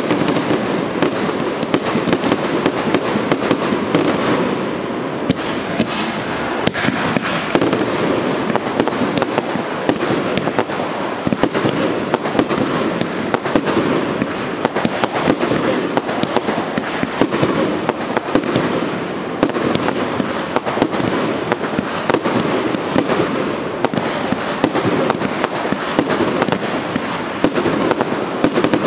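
Professional fireworks display: aerial shells launching and bursting in rapid, unbroken succession, with crackling, a dense barrage of bangs with no let-up.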